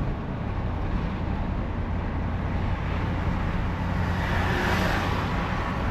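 Rented truck driving on the road, heard from inside the cab: a steady low engine and road rumble, with a rushing hiss that swells and fades about four to five seconds in.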